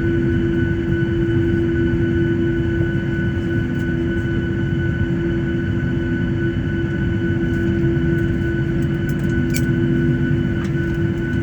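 Steady cabin noise of a Boeing 737-800 jet: a low rumble with a constant engine whine over it, unchanging throughout, with a faint click or two near the end.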